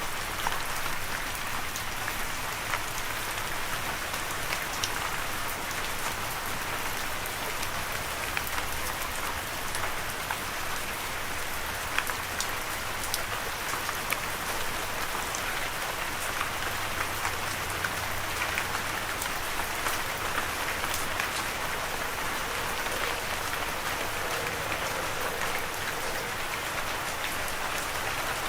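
Steady rain falling, an even hiss with many individual drops striking close by.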